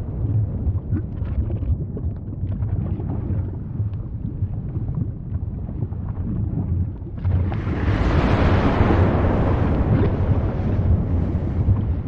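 Volcano erupting: a deep, steady rumble with small crackles, then a louder rushing blast that starts about seven seconds in and holds.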